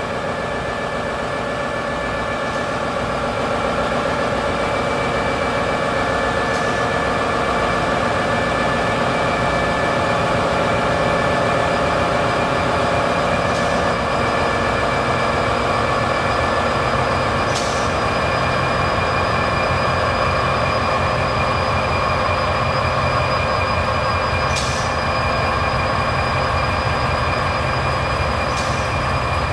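Train running on the rails with a continuous rumble and steady high squealing tones from the wheels. A few sharp clicks come at uneven intervals.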